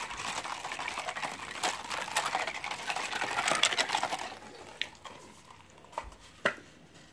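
Close-up chewing of crispy battered onion rings: dense crunching and wet mouth noises that stop a little past four seconds in, followed by a few faint clicks.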